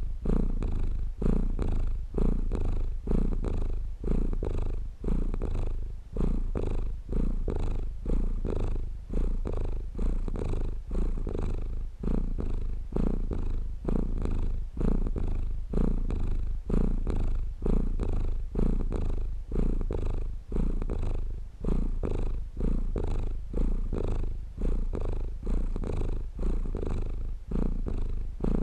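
Domestic cat purring close up: a steady low rumble that swells and eases in a regular rhythm, a little over one cycle a second, with each breath in and out.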